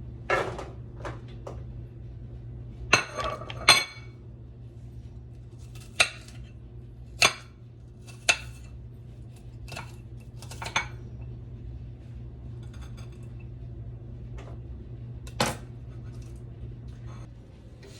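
Kitchen dishes and utensils clinking and knocking: about eight sharp, separate strikes spread out, a few with a short metallic ring, over a steady low hum.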